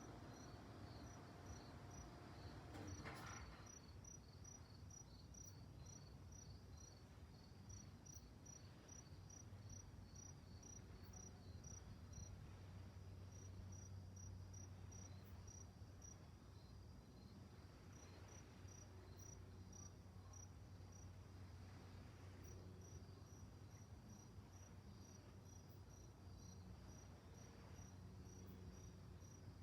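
Crickets chirping faintly, high evenly spaced chirps at two slightly different pitches, about two a second. A brief rustle about three seconds in.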